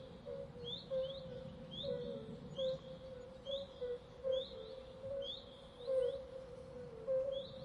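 White-breasted waterhen calling, a short call repeated steadily about once a second.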